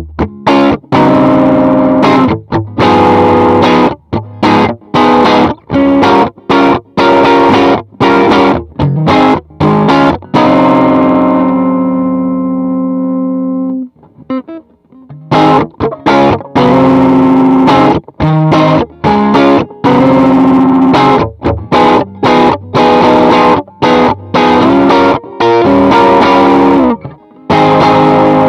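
Electric guitar played through a 68 Pedals Inca Kola overdrive pedal, a Zendrive clone, giving a distorted tone. Choppy, muted chords with sharp stops, a long chord ringing out and dying away about halfway through, then more choppy chords and another chord left to ring near the end.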